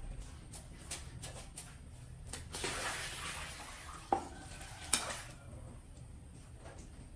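Light clatter of objects being handled: scattered clicks and knocks, with a rush of hissing noise about three seconds in and two sharper clinks a second or so later.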